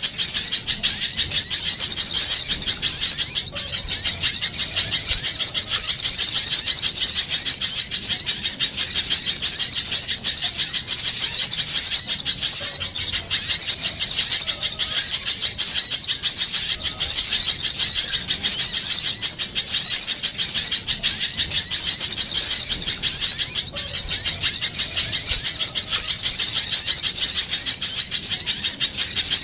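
A dense chorus of small songbirds twittering and chirping rapidly and without pause, many quick high-pitched notes overlapping: a noisy mixed-flock recording used as a lure to call small birds in.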